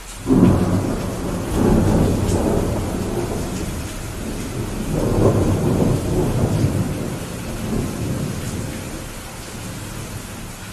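Rolling thunder over steady rain. A rumble breaks in suddenly just after the start, swells again about five seconds in, then fades while the rain hiss carries on.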